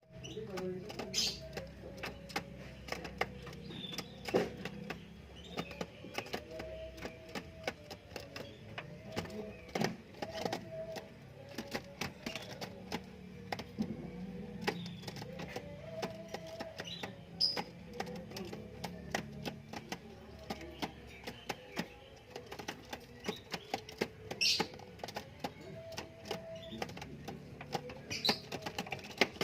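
Seven-day-old canary chicks in the nest: dense irregular scratchy clicking and rustling, with a few brief high chirps spread through it.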